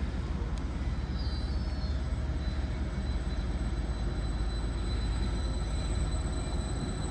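A train at the station running with a steady low rumble and a faint high whine.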